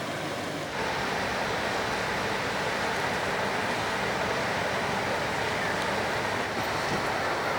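Steady rushing outdoor noise with no distinct events, louder from about a second in.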